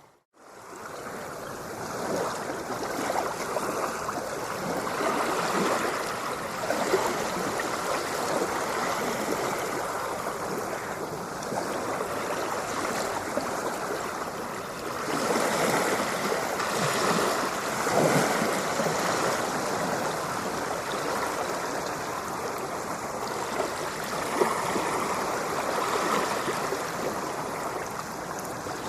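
Ocean waves washing on a shore, a steady rush of water with slow swells as waves come in. The sound drops out for a moment at the very start and fades back in.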